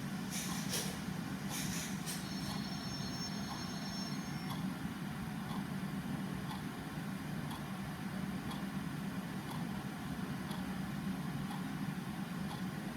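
Clock ticking faintly, about once a second, over a steady low rumble of background ambience. In the first two seconds there are a few short hissy bursts, and a faint high whine runs briefly after them.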